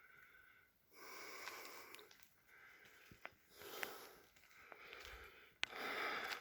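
A hiker breathing hard in steady, repeated breaths while climbing a steep slope, with a few faint clicks.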